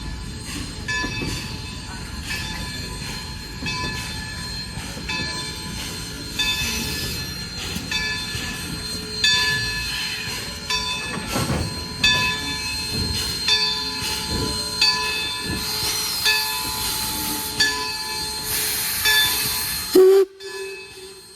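Passenger train rolling past with a steady rumble of wheels on rail while the locomotive's bell rings over and over, about once a second. The sound drops off sharply near the end.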